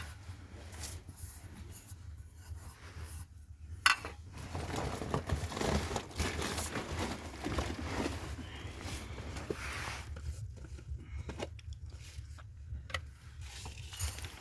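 Irregular rustling, crinkling and scraping of things being handled, with a sharp click about four seconds in and a few lighter clicks later, over a steady low hum.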